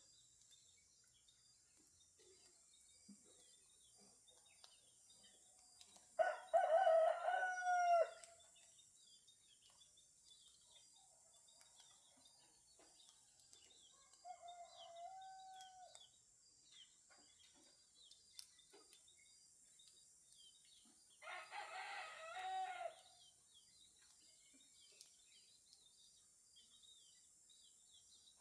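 Roosters crowing at dawn: a loud two-second crow about six seconds in, a fainter one around fifteen seconds, and another around twenty-two seconds. Small birds chirp in between, over a steady high hiss.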